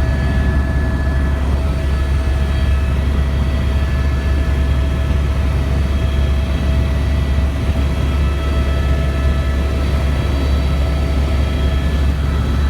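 Helicopter in flight: a loud, steady low drone with several steady whining tones above it.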